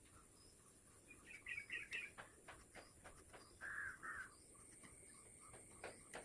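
Faint bird chirps: a quick run of three or four high notes about a second in, then two lower notes around the middle, with scattered soft clicks.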